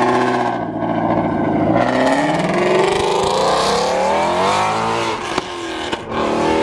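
Ford Mustang Shelby GT350's V8 accelerating away. The engine note climbs steadily for about two and a half seconds, then drops back as it lifts off, with a couple of sharp cracks, before settling into a steadier drone near the end.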